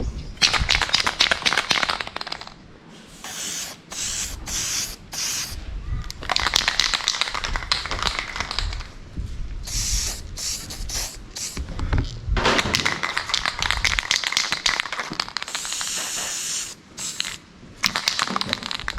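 Aerosol can of silver zinc spray hissing in short bursts onto welded steel seams: several quick bursts a few seconds in, more around the middle and a longer one near the end. Between the bursts come stretches of rapid clicking rattle, typical of the can being shaken.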